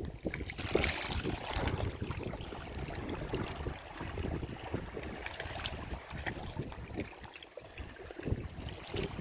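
Sea waves breaking and washing up on a shoreline: a wash of surf swells about a second in and slowly ebbs, over gusty wind rumbling on the microphone.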